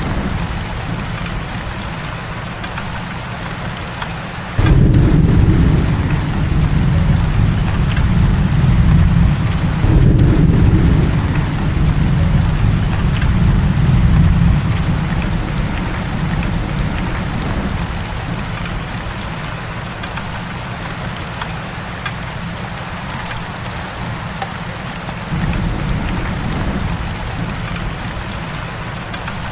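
Heavy rain falling steadily. A low rumble of thunder breaks in suddenly about four seconds in and rolls on for around ten seconds before fading, and a fainter rumble follows near the end.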